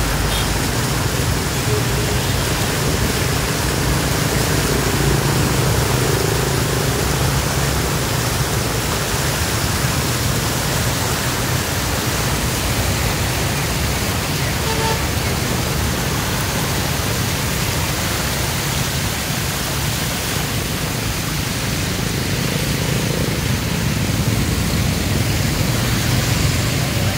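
Rain falling in a steady, even hiss, with a low rumble underneath.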